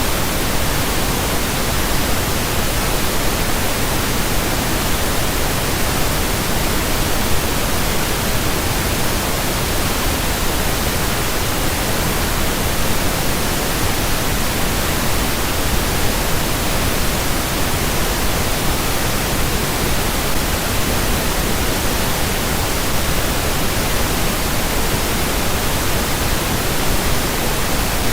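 Steady pink noise: an even, unchanging hiss across all pitches, weighted toward the low end.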